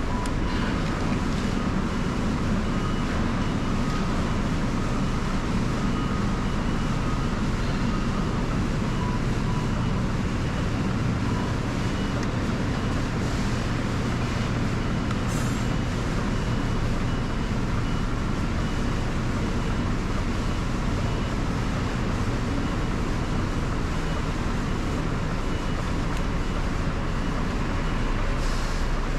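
Scania lorry's diesel engine running steadily, a constant low rumble, with a brief click about halfway through and another near the end.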